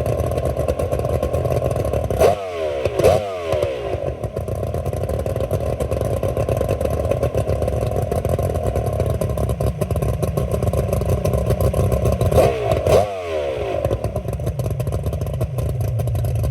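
Two-stroke outboard engine running at a steady idle, blipped twice in quick succession about two seconds in and again about twelve seconds in, the revs falling back each time.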